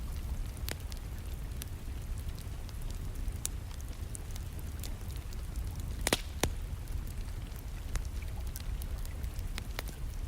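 Wood fire crackling in a fireplace: irregular sharp pops and snaps, the loudest pair a little after six seconds in, over a steady low rumble with soft rain in the background.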